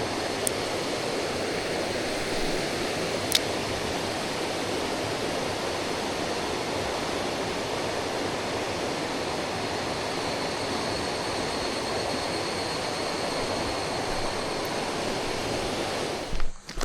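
Steady rush of flowing water, with a faint high steady tone above it. It cuts off abruptly just before the end.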